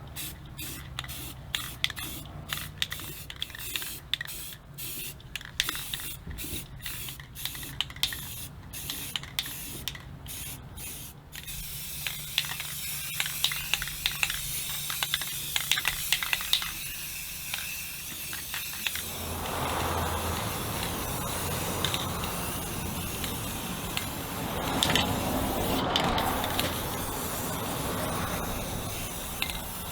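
Aerosol can of Rust-Oleum gloss protective enamel spraying onto steel truck wheel rims. For the first ten seconds or so it hisses in short bursts, then runs in longer, steadier passes that grow fuller and louder later on.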